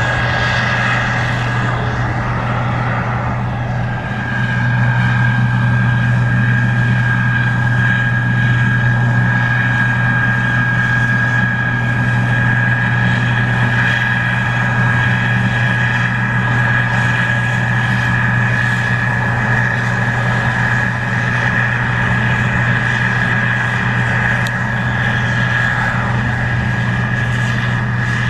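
Case IH 2144 Axial-Flow combine running steadily under load while harvesting corn: a constant diesel engine drone with a steady high whine above it. It gets a little louder about four seconds in.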